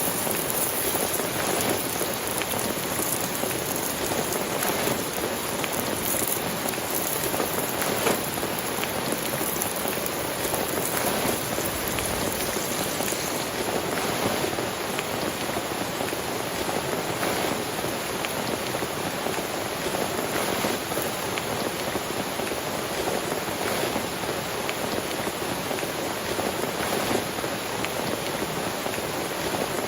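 Heavy rain from a rainstorm falling steadily, an even dense patter with no break.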